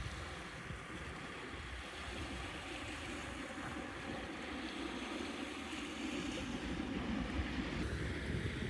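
Steady wind rushing, with irregular low rumbling of wind buffeting the microphone.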